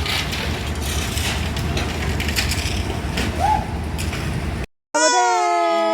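Steady outdoor construction-site and street noise with scattered knocks and clatter. It cuts off abruptly near the end, and a loud held tone with many overtones follows.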